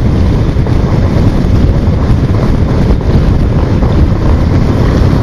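Loud, steady wind buffeting a microphone on a moving motorcycle, with road and engine rumble blended in underneath.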